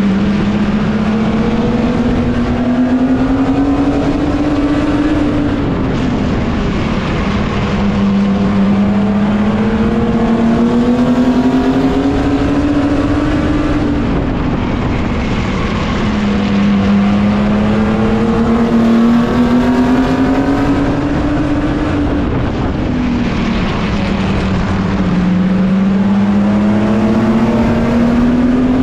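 Racing mini truck's engine heard from a roof-mounted camera. Its pitch climbs steadily for several seconds and then drops back, three times over: accelerating down the straights and lifting for the turns, lap after lap. Wind and road noise run underneath.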